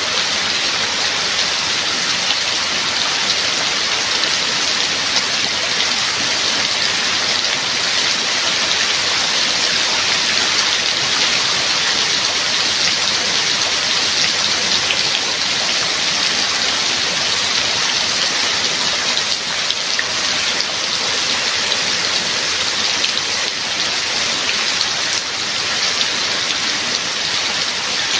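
Steady heavy rain falling, an even hiss of many drops with no thunder.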